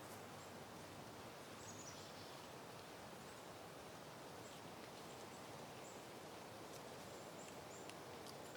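Soft, steady wind in outdoor vegetation, faint and even, with brief high chirps now and then in the background.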